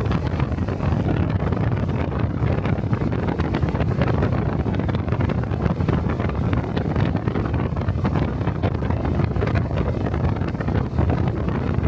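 Honda Cub motorcycle running at a steady pace on the road, its engine under heavy wind noise buffeting the microphone.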